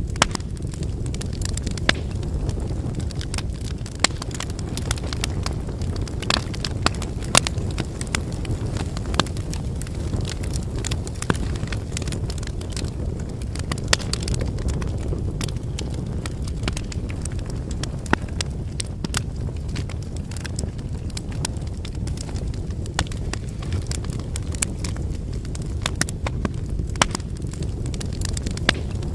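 Wood fire burning: a steady low rush of flames with irregular sharp crackles and pops from the burning firewood.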